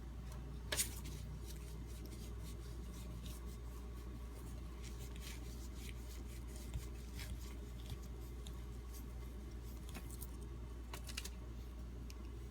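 Scattered small clicks and taps of a freshly sharpened knife blade being handled, with one sharper click about a second in, over a steady low hum.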